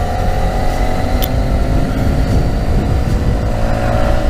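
2012 Yamaha FZ6R's 600cc liquid-cooled inline-four running in third gear at cruising speed, its pitch creeping slowly up under light throttle.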